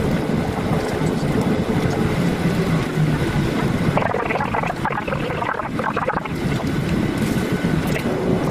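Steady rumble and rush inside a Boeing 737-800 cabin: its CFM56-7B engines and airflow heard from a window seat, with rougher, busier noise partway through.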